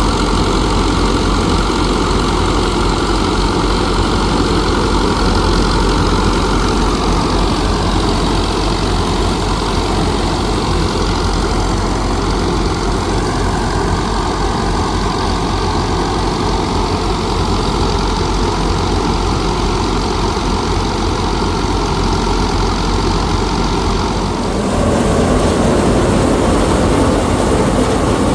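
A heavy engine running steadily, with a loud continuous low hum; the sound changes abruptly about 24 seconds in.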